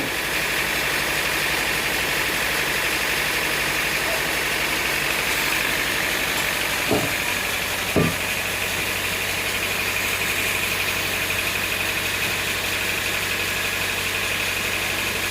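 Engine running steadily at idle, with two short knocks about seven and eight seconds in.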